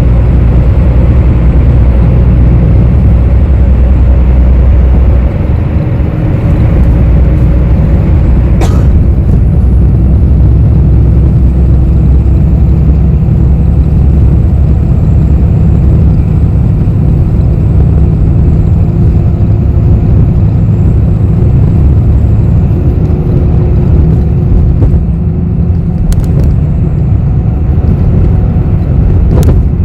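Inside a moving city bus: a steady, deep rumble of engine and road noise, whose lowest tones drop about five seconds in. A sharp click comes about nine seconds in, and a few more near the end.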